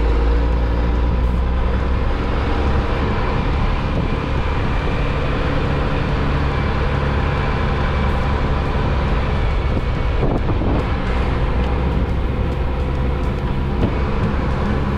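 A moving car's steady engine and road rumble, strongest in the low end.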